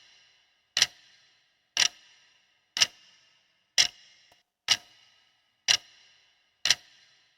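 Countdown timer ticking, one sharp clock tick about every second.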